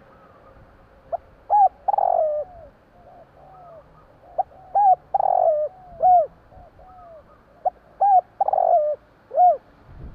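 Spotted dove (tekukur) cooing its song: the same short phrase three times, about every three seconds, each a few arched coos around a louder rolled middle note. Fainter coos sound between the phrases.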